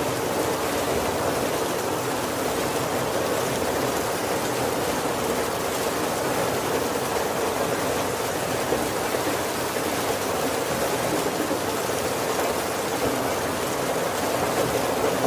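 Heavy rain falling steadily on a wooden carriage roof: an even, dense hiss with no single drops or other sounds standing out.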